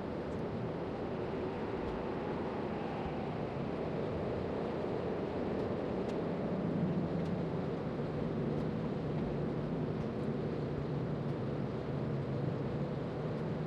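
Steady rumbling background noise, with a low hum that grows louder about six seconds in.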